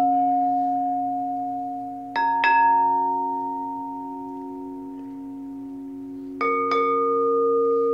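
Quartz crystal singing bowls struck and left ringing, several steady overlapping tones fading slowly. Two quick strikes come about two seconds in and two more near six and a half seconds in, each adding a new bright ringing tone.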